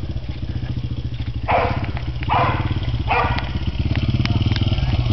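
Motorcycle engine running steadily with an even, rapid pulse. Three short, loud sounds come over it, about a second apart, in the first part.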